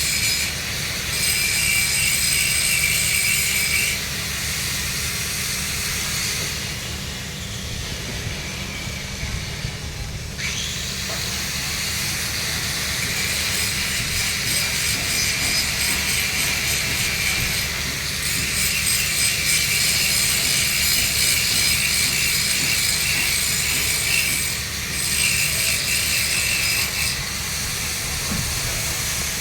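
Electric welding arc running on 3-inch schedule 80 steel pipe during the root pass: a steady hiss with a constant low hum beneath. The hiss drops back for a few seconds about a third of the way in, then picks up again.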